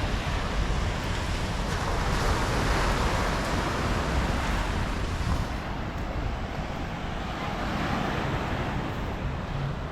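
Sea surf washing onto a rocky beach, a steady rushing wash with wind buffeting the microphone.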